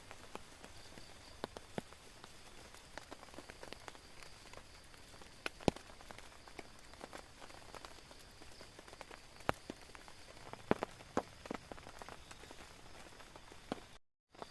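Rain on a tent: a steady hiss with scattered, irregular sharp taps of drops hitting the fabric. The sound drops out completely for a moment near the end.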